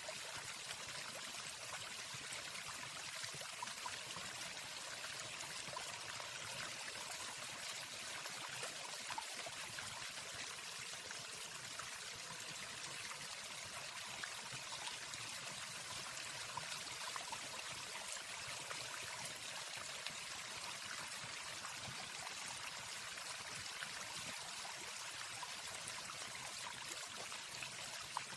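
Waterfall rushing: a steady, even hiss of falling water, with no birdsong over it.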